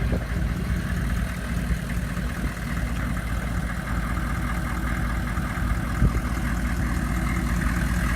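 The 6.5-litre V8 turbo diesel of a 1995 Chevy 3500 pickup idling steadily, with one short knock about six seconds in.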